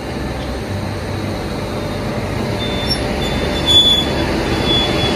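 Passenger train at close range: a steady running rumble that grows slightly louder, with a thin high squeal coming in about two and a half seconds in and stopping just before the end.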